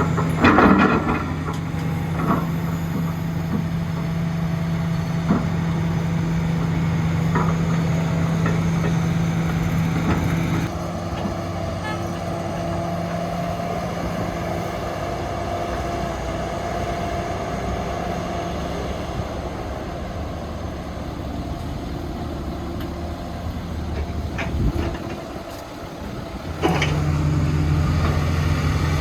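Diesel engines of heavy construction machinery, excavators and dump trucks, running steadily with a low hum, with a few sharp knocks in the first second. The engine sound changes abruptly about ten seconds in and again near the end.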